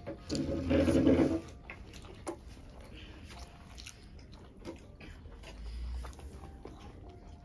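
Close-miked eating sounds: two people chewing mouthfuls of food, with soft wet mouth clicks scattered through. A short hummed voice sound comes about half a second in and is the loudest thing heard.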